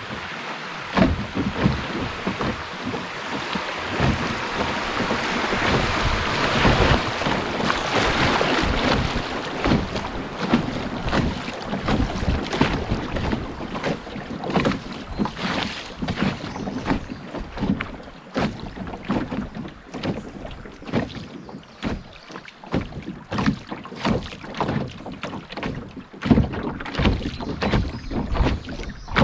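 Water splashing and lapping around a canoe on a moving river, with many small knocks and splashes throughout. A louder rush swells for several seconds in the first third.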